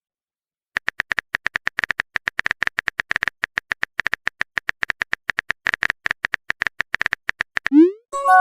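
Phone keyboard typing sound effect: a quick run of taps, several a second, for about seven seconds. Near the end a short rising swoop and a brief chime follow, the sound of a message being sent.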